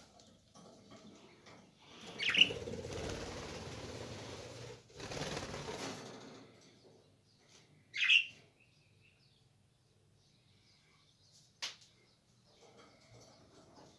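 Small pet parrots flapping their wings in two bursts of a couple of seconds each, with two sharp chirps, one about two seconds in and one about eight seconds in, and a short click near the end.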